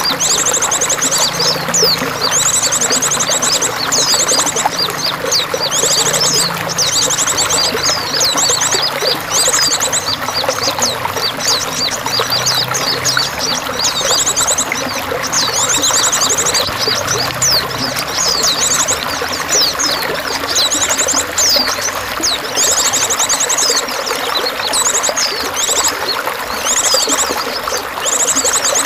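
Steady pouring, trickling water with songbirds calling over it. Short, very rapid high trills recur every few seconds, with quick sweeping chirps between them.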